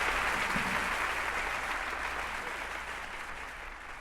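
Audience applauding at the end of a live song, the applause slowly fading away.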